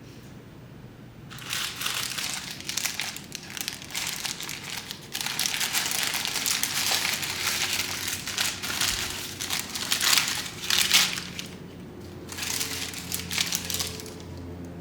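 A burrito's wrapper crinkling as it is handled and opened: a burst of rustling about a second in, a longer busier stretch through the middle, and a shorter burst near the end.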